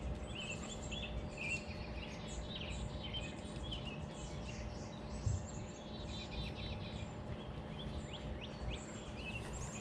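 Several songbirds chirping and trilling over one another, over a steady low background rumble, with a single low thump about five seconds in.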